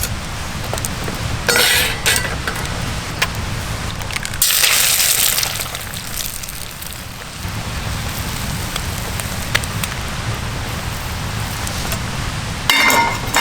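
Steady crackle and hiss of a campfire, with a few short clinks of tableware about a second and a half in, around four and a half seconds in, and near the end.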